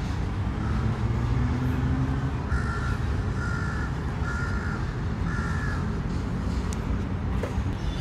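A bird calling four times in a row, short calls just under a second apart, over a steady low rumble.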